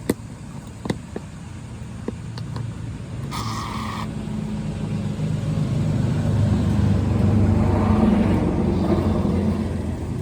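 A car engine running, growing louder to a peak about eight seconds in and then easing off. A few sharp clicks come in the first two seconds, and a short hiss comes just before four seconds.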